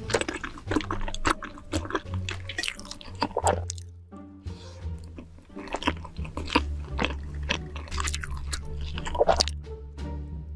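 Close-miked eating sounds: a person chewing and biting chewy food, many sharp mouth clicks and smacks in quick succession, over background music with a steady low bass line.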